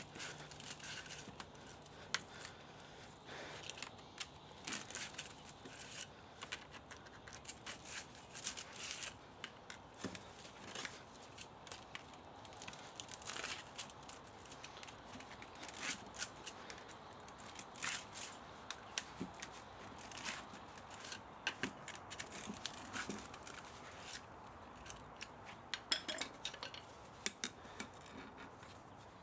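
Irregular snipping and clicking of hand cutters working on a scrap spa motor's copper and metal parts, with light metal clinks.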